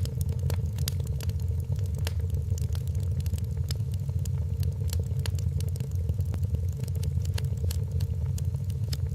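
Wood fire crackling in a fireplace: frequent small irregular pops and snaps over a steady low rumble.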